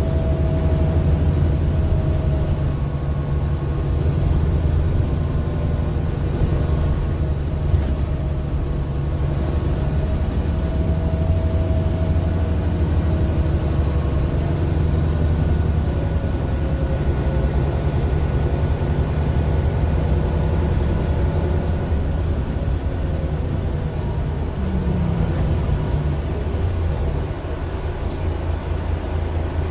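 2009 Mercedes-Benz Citaro LE city bus heard from inside the cabin: its Daimler OM 457 hLA straight-six diesel runs with a steady, deep drone and a few faint whining tones above it.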